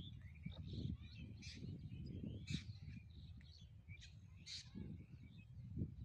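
Several birds chirping and calling in short, sharp notes and twitters, over an irregular low rumble.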